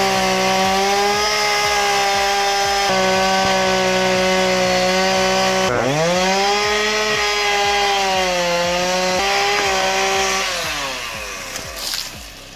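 Chainsaw engine running at high revs. The pitch drops and climbs straight back about halfway through, sags briefly, then winds down near the end, followed by a few clicks.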